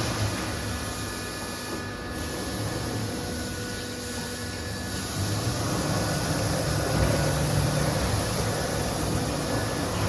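CNC router running: a steady mechanical noise with faint steady whining tones.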